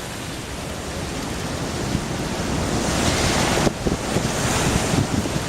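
Strong wind of an incoming dust storm gusting across the microphone, a steady rushing noise with low rumbling buffets that builds and grows brighter about three seconds in.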